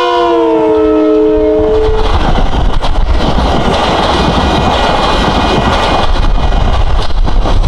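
Metro-North commuter train passing close by. Its horn chord drops in pitch as the cab car goes past and stops about two seconds in. The coaches then roll by with a steady rushing rumble and wheel clatter.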